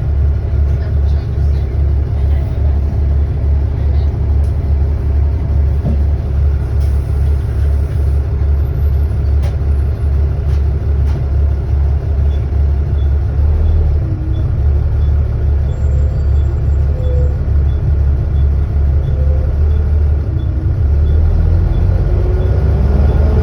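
Volvo B7TL double-decker bus's six-cylinder diesel idling with a heavy, steady drone, a light ticking about one and a half times a second joining partway through. Near the end it pulls away, with a rising whine as it accelerates.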